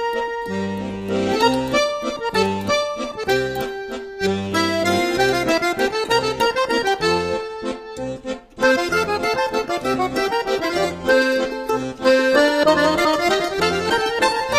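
Background music led by an accordion, melody over rhythmic bass and chord notes.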